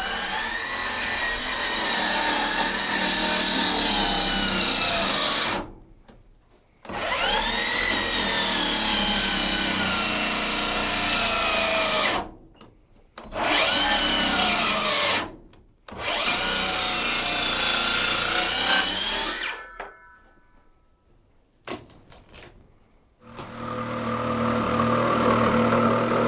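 Power saw cutting wood in four bursts; in each the motor's whine jumps up, then sags as the blade bites. Near the end a steady engine-like hum starts.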